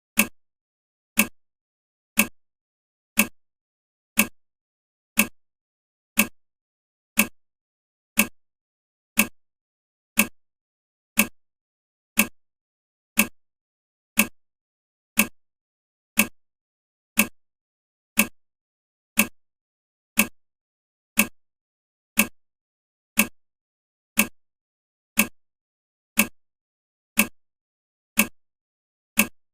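Ticking of a countdown timer: one short clock-like tick every second, each dying away quickly, in a steady even beat.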